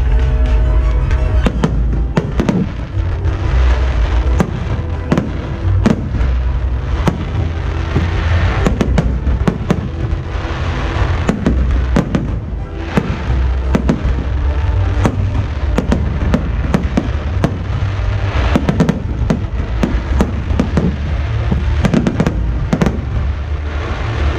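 Aerial fireworks display: a continuous run of shell bursts and crackles with many sharp bangs, over loud accompanying music with a heavy bass.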